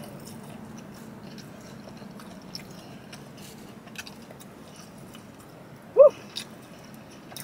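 A person chewing a mouthful of hot fried fish, with faint scattered mouth clicks over a steady low hum. About six seconds in there is a short, loud vocal sound that rises and falls in pitch.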